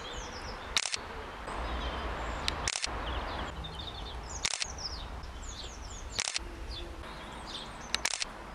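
Small birds chirping and twittering over a steady low rumble, with a sharp click about every two seconds, five in all.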